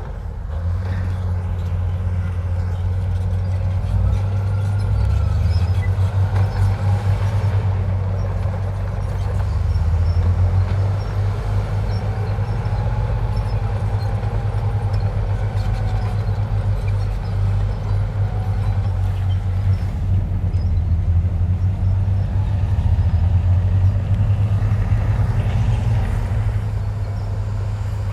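Heavy diesel engine of earthmoving machinery running and working under load, its level rising and falling, with a faint wavering whine above the engine.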